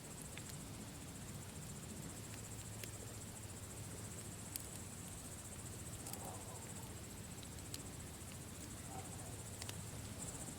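Campfire crackling, with scattered sharp pops over a low rumble of burning wood, and crickets chirping in a steady high trill behind it.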